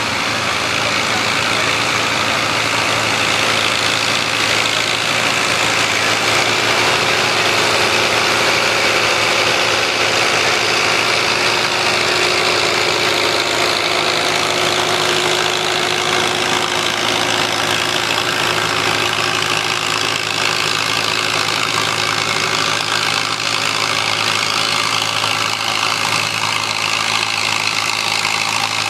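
Farm tractor engine running steadily and loudly, with a faint tone that rises slightly in the middle.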